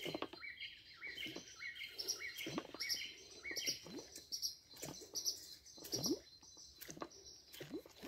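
A bird singing a quick run of short, high, stepped notes repeated about two a second, stopping about four seconds in. Faint short clicks and swishes sound between and after the notes.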